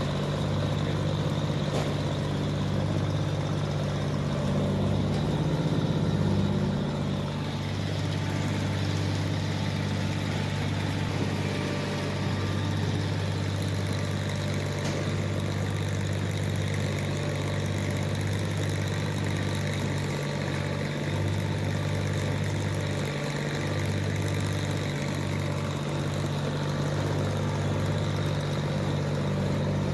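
SP-14 self-propelled sweet corn harvester's engine running at a steady, constant speed, a continuous low drone.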